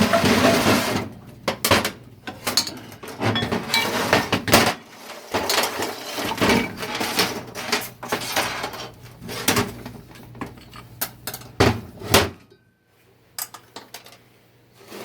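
Metal 4L60-E transmission parts clinking and clattering as they are handled and set down on the bench, with irregular sharp knocks and a short lull near the end.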